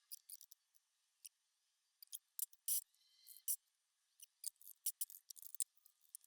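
Faint, irregular light clicks and ticks, about twenty short sharp ones spread unevenly, typical of small hard objects being handled.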